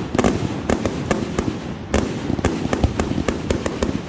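Fireworks going off: a dense, irregular string of sharp pops and cracks, several a second, over a low rumble, with a short lull a little under two seconds in.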